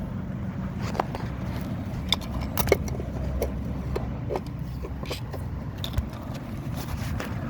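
Scattered sharp clicks and small metallic taps, from a flathead screwdriver prying at the plastic clips of an engine wiring harness, over a steady low rumble.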